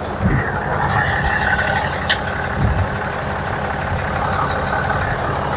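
Cummins 6.7-litre inline-six turbo diesel running steadily at idle, with a couple of sharp metallic clicks and a few low thumps over it.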